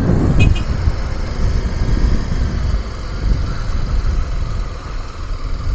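Motorcycle engine running steadily at low speed, with a brief high chirp about half a second in.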